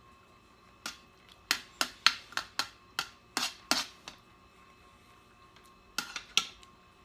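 Crunchy food being bitten and chewed close to the microphone: a quick run of about nine sharp crunches, a pause, then three more near the end.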